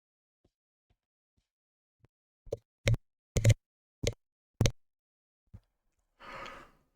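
Five short, sharp knocks or taps about half a second apart, followed by a faint tap and a brief breathy rush of noise near the end.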